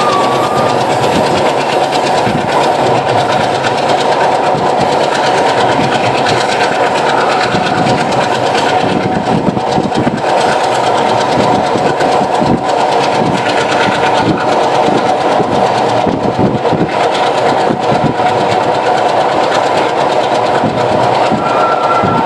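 Madhumati Express passenger train running at speed, heard from an open coach door: a steady, loud rumble of wheels on the track with irregular clattering.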